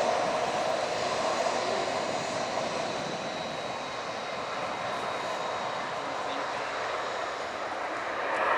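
Jet airliner engines running: a steady rushing noise with a thin high whine, easing slightly over the first few seconds.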